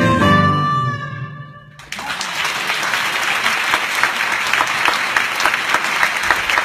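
A band's closing chord rings and fades away, then audience applause breaks out about two seconds in and carries on steadily.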